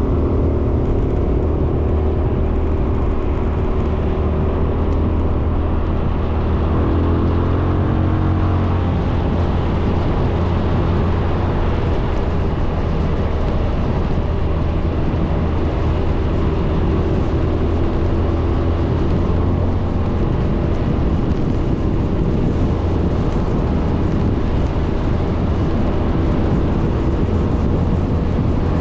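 Suzuki Burgman 400 scooter's single-cylinder engine running steadily under way, a low hum over an even rush of road and wind noise.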